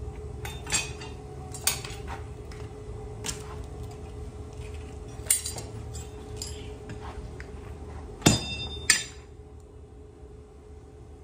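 Scattered metal clanks and taps, about seven at irregular intervals, as steel and tools are handled and lightly struck in a blacksmith's workshop. Two louder, ringing clanks come close together near the end, over a steady low hum.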